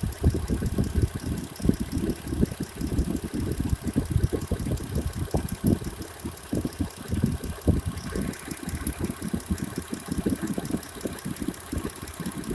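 Mitsubishi Pajero IV petrol V6 engine idling, with the timing-belt squeak gone for the moment after the belt was sprayed with silicone.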